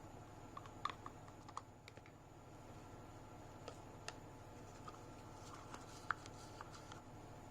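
Scattered faint clicks and light taps over a steady low hiss, the sharpest about six seconds in.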